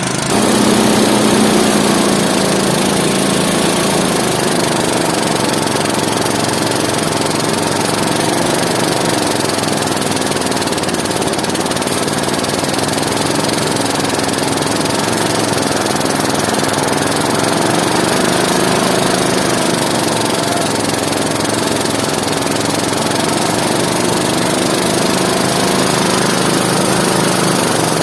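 A small engine running steadily, its pitch wavering slightly up and down as the load changes.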